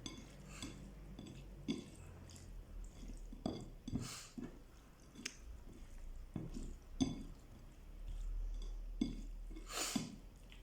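Soft wet squelching and scattered light clinks as shrimp and mixed seafood coated in chermoula marinade are handled and placed in a tagine dish.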